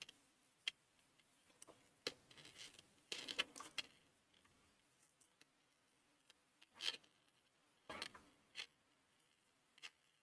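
Faint, irregular clicks and brief rustles of crocheting single crochet stitches: the hook working through the yarn, with a dangling stitch marker clicking.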